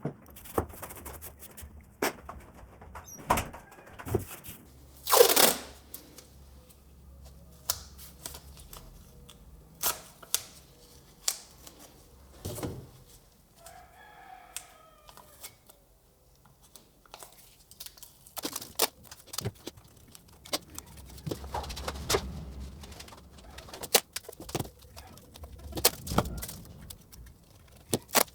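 Irregular clicks, knocks and short scrapes of parts and tools being handled, with a brief rooster crow about halfway through.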